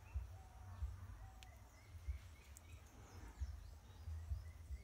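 Faint bird chirps over a low, uneven rumble, with one small click about a second and a half in.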